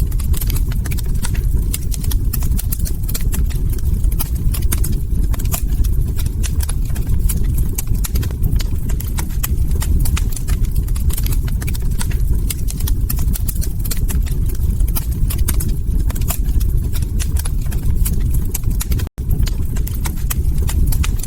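Log fire crackling: many sharp, irregular pops and snaps over a steady low rumble of burning wood. The sound cuts out for an instant about 19 seconds in.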